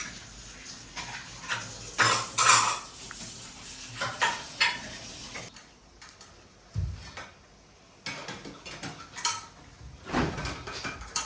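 Plates and cutlery clinking and knocking in a scattering of separate short clinks, with a quieter stretch in the middle broken by one dull thud.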